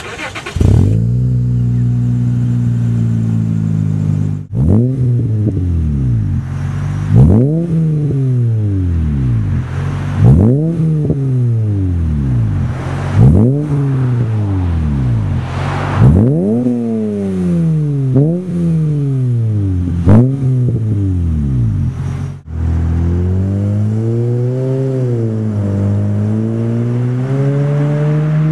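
Second-generation Acura TL's V6 through a Stromung catback exhaust, revved in repeated quick blips, about eight times, each rising sharply in pitch and falling back to idle. Near the end it is revved more gently in slower, smaller rises and falls.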